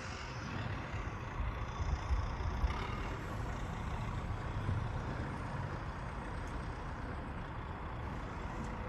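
City snowplow truck running steadily.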